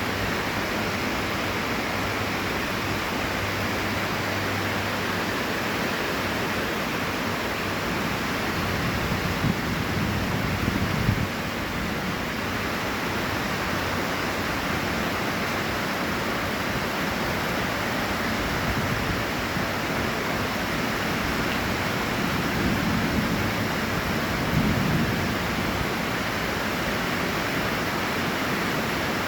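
Heavy rain falling steadily, a dense even hiss. There are two brief low swells, one about ten seconds in and one about three quarters of the way through.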